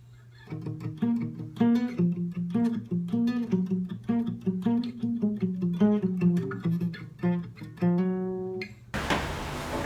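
Guitar picking a repeating riff of single plucked notes over a low repeating figure; near the end it cuts to a steady hiss.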